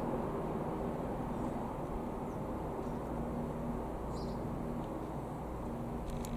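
Steady low rumble of distant engine noise, with a few faint high chirps.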